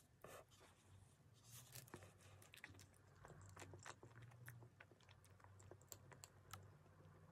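Soft, close-miked chewing of a spongy coconut-topped cake, with a bite at the start and many small wet mouth clicks throughout.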